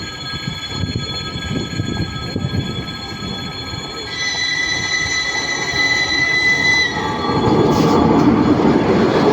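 ChS2T electric locomotive and its laboratory car rolling on the rails with a steady high wheel squeal. A brighter squeal tone comes in about four seconds in and lasts about three seconds. The rolling noise grows louder from about seven seconds in.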